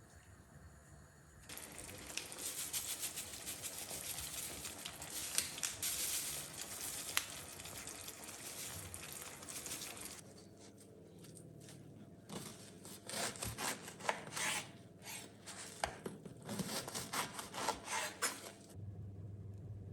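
Kitchen food preparation: a steady run of rasping, rubbing strokes for several seconds, then a quieter gap and a series of shorter separate strokes.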